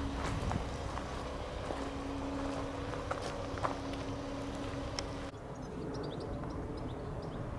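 Heavy truck engine running with a steady drone and a few knocks; about five seconds in the sound changes abruptly and birds chirp over the engine noise.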